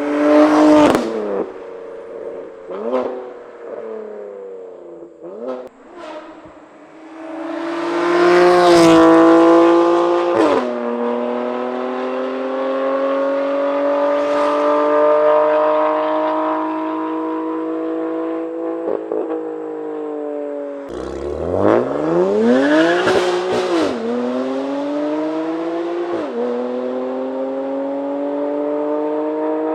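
BMW S55 twin-turbo straight-six in an M3/M4, running through a titanium equal-length exhaust with the valves open, under hard acceleration. A few short bursts come in the first seconds. Then the engine pulls long through the gears, its pitch climbing steadily and dropping sharply at each upshift.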